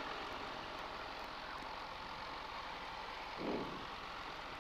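A 1977 Varga 2150A's four-cylinder Lycoming O-320 engine idling on the ground, a faint steady drone, with a brief low sound about three and a half seconds in.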